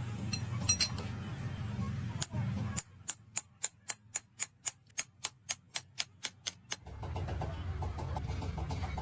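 A steady low rumble, then from about three seconds in a run of sharp, evenly spaced metallic clicks, about five a second for about four seconds, while the rumble drops away; the rumble comes back near the end.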